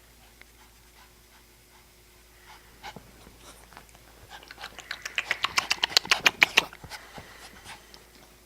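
Young wolf panting fast and hard, a quick run of about nine breaths a second lasting a couple of seconds, about halfway through, after a quiet start.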